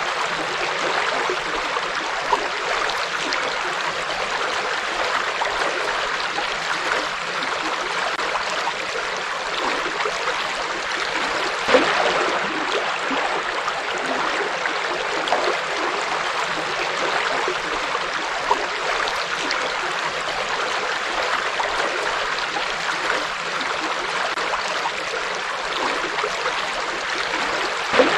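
Forest river flowing steadily over rocks, a continuous rush of water with small splashes and gurgles; one slightly louder splash about twelve seconds in.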